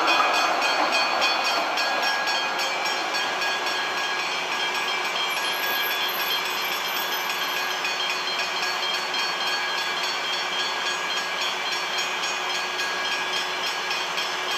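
Electric suburban train passing and slowly fading away, a steady rushing rail noise that is loudest at the start and eases off over the following seconds.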